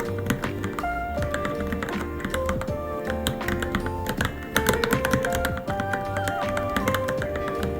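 Continuous typing on a Varmilo Minilo mechanical keyboard: a rapid, uneven run of keystrokes. It sits over background music that has a melody and a steady low beat.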